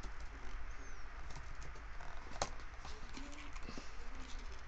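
Scattered computer mouse and keyboard clicks over a steady low electrical hum, with one sharper click about halfway through.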